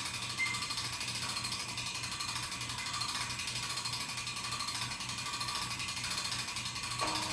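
Rapid, even ratchet clicking from a hand-worked mechanism, going on steadily.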